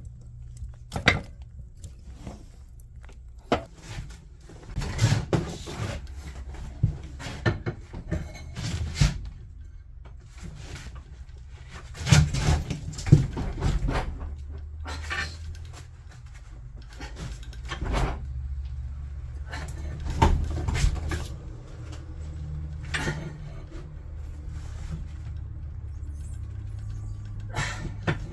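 Metal grill trivet being handled on a wood stove: irregular knocks and clinks over a steady low hum.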